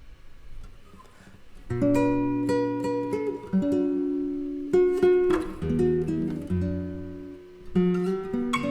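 Two guitars, a nylon-string flamenco guitar and a Fender Telecaster electric, playing a jazz duo. After a quiet first second or two, the guitars come in with plucked notes over held chords.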